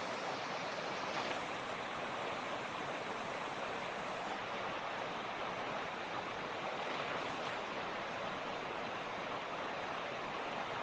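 Mountain creek water rushing steadily over rocks, an even, unbroken hiss of flowing water.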